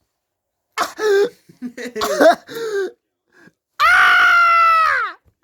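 A voice giving short wordless cries and yelps, then one long held scream that drops in pitch at the end.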